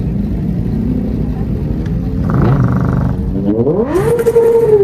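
Kawasaki ZX-10R's inline-four engine running, then revved hard about three and a half seconds in: the pitch climbs quickly, holds high and begins to drop at the end.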